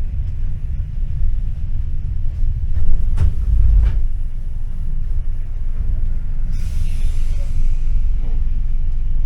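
A tram running on its rails with a steady low rumble. A few knocks come about three seconds in, and a short hiss near the middle.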